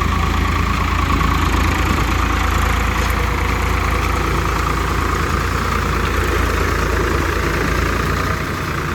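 Swaraj 744 FE tractor's three-cylinder diesel engine running steadily, the level easing slightly near the end.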